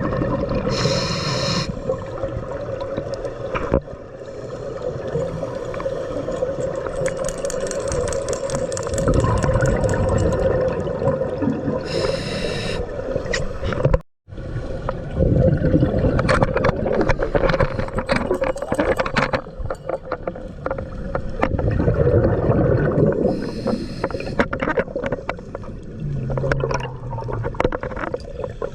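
Steady hum of a boat's motor over a wash of water noise, with three short bursts of hiss spread through the clip.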